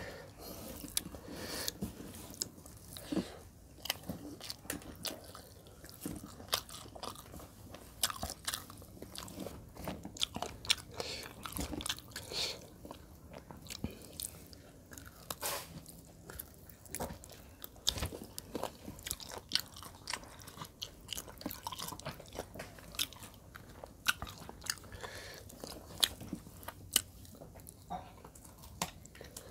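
A person chewing and biting food close to a lapel microphone while eating chicken legs in curry with rice by hand: irregular mouth clicks and crunches throughout.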